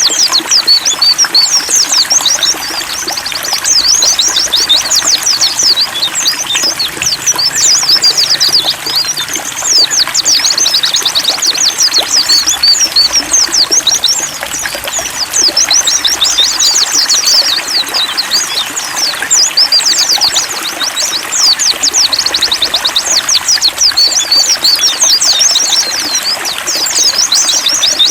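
White-eyes (pleci) singing in fast, continuous high-pitched twittering, over a steady trickle of running water.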